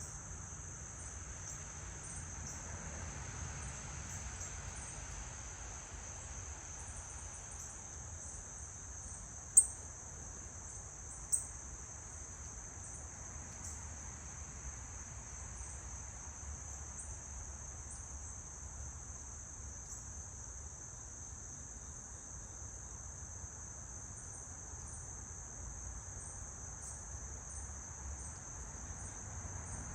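Steady high-pitched chorus of insects trilling without a break, with two brief sharp high sounds standing out about ten and eleven seconds in.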